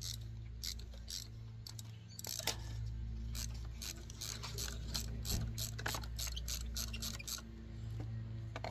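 An engine running steadily with its spark plugs freshly replaced, overlaid by a run of sharp mechanical clicks, about four a second, from about two seconds in until shortly before the end.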